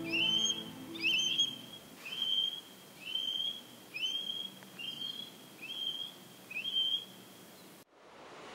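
A bird calling over and over, a short upward-slurred whistle about once a second, growing fainter. Low music notes fade out in the first second or two, and near the end the sound cuts abruptly to a steady rushing noise.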